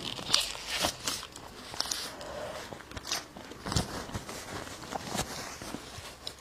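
A person eating: biting and chewing food, with scattered short, sharp clicks and smacks of the mouth.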